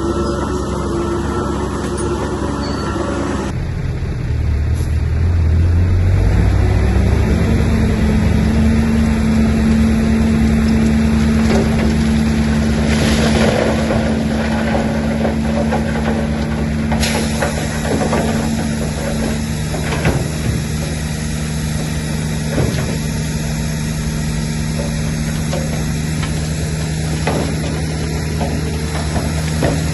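Heavy diesel bulldozer engine running steadily under load, its note changing abruptly about three and a half seconds in and settling higher a few seconds later, with scattered metallic knocks and clanks in the second half.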